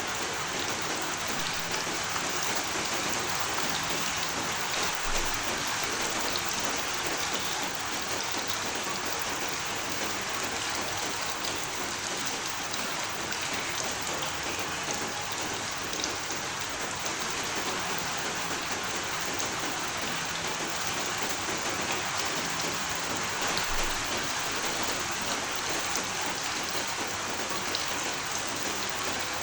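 Steady, heavy rain falling and pattering on a surface, an even hiss dotted with individual drop ticks.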